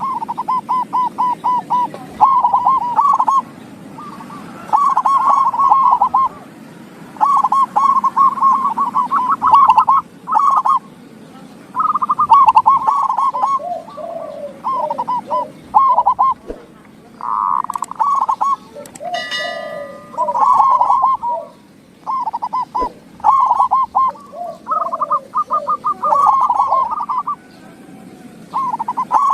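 Zebra doves (perkutut) cooing: repeated fast, bubbling trilled phrases a second or two long with short pauses between, and a lower-pitched dove answering at times. A brief, harsher call cuts in about nineteen seconds in.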